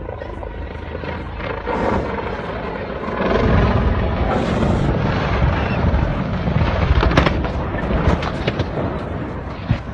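Helicopter flying, a loud rough rumble of rotor and engine noise that grows louder about three seconds in.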